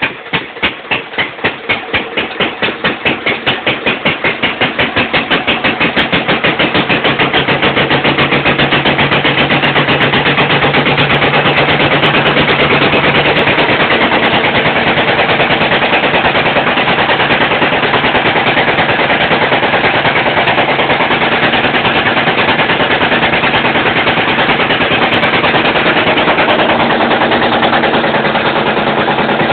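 Old DIAR diesel engine, just started by hand crank, firing in separate beats that quicken over the first several seconds until they run together into a steady run.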